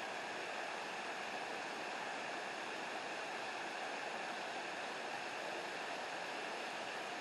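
Steady rush of flowing water from a creek running down toward a waterfall, even and unbroken.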